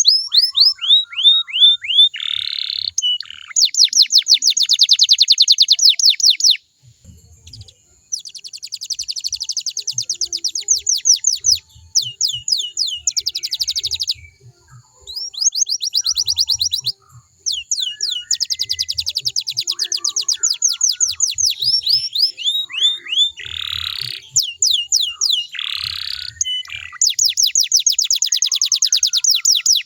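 Domestic canary singing a long song of fast trills and rolls, each a rapid run of repeated high, downward-sweeping notes, with a few brief pauses between phrases.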